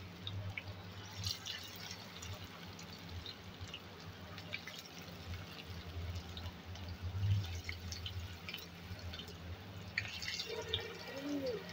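Grated-potato tikkis shallow-frying in hot oil over a low gas flame: a steady, faint sizzle with many small crackling pops.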